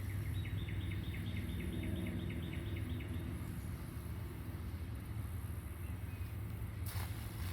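Outdoor ambience with a steady low rumble, and a small bird giving a quick run of repeated chirps for the first three seconds. A short rustle or knock comes near the end.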